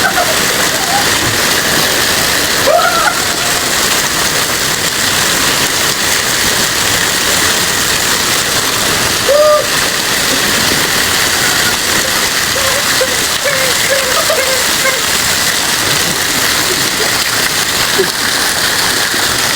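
Steady, heavy rain falling, an even hiss, with a few faint brief calls or voices in the background.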